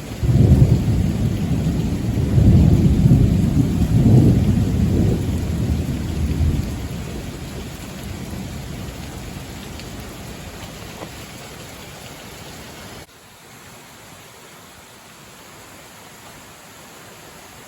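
Thunder rumbling over steady rain: a long, low rumble that swells during the first few seconds and then slowly dies away. About two-thirds of the way through the level drops abruptly, leaving only the steady hiss of rain.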